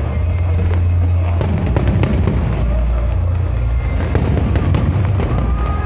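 Aerial fireworks display: a continuous deep booming rumble of shell bursts, with many sharp crackling reports throughout.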